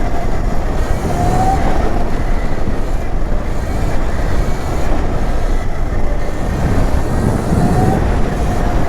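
Electric mini dirt bike ridden along a rough trail: a steady rumble and rattle of tyres and frame over the ground, mixed with wind on the microphone. The electric motor's faint whine rises briefly a couple of times.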